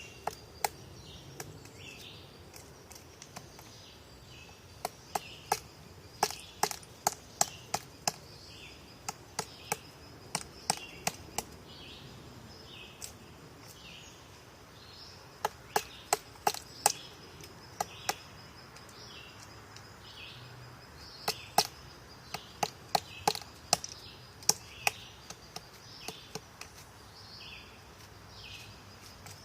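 Woodpecker pecking at wood: sharp, irregular taps, some single and some in short runs of several, with pauses of a few seconds between the runs.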